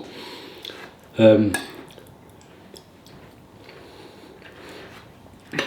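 Cutlery clinking and scraping against a plate while eating, with a short voiced sound from the eater a little over a second in.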